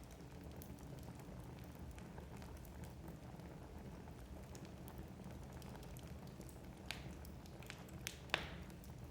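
Wood fire burning in a fireplace: a low steady rumble of the flames with scattered light crackles of the logs, and a few sharper pops near the end, the loudest one about eight seconds in.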